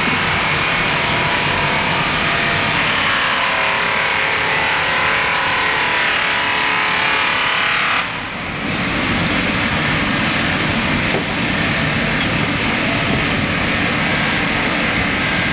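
Automatic outer polishing machine running, its buffing wheels working the outer surface of a kettle body: a loud, steady rushing noise with a faint hum under it. The sound changes abruptly about eight seconds in.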